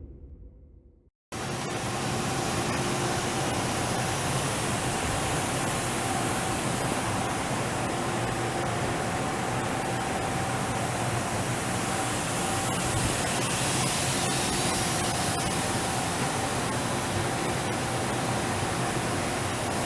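Makino S56 CNC vertical machining center running: a steady hiss with a faint, steady hum under it, starting suddenly about a second in.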